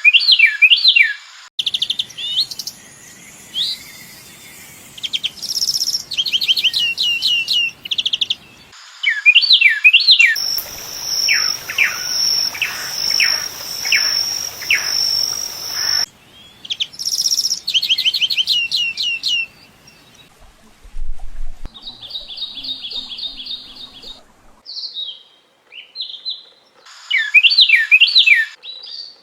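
Songs of several different small birds, spliced together with abrupt cuts: quick series of high whistled chirps, a steady high tone with rapid chirps in the middle, and a fast rattling trill later on.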